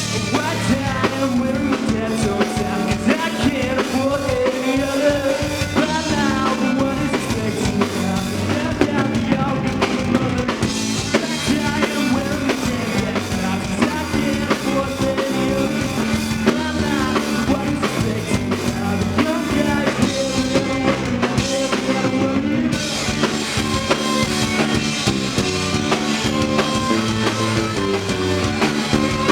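Live rock band playing, driven by a full drum kit with bass drum and snare under bass and guitar.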